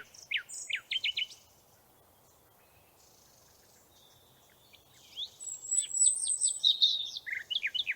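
Birds chirping: a run of quick high chirps, a pause of about three seconds, then more chirps with a short high trill.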